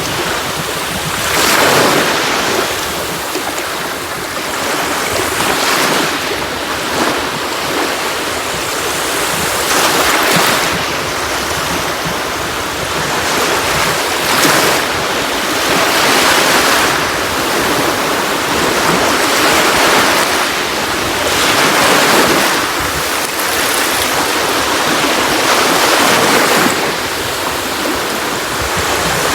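Sea waves breaking on a shore: a steady wash of surf, with a wave surging in every few seconds.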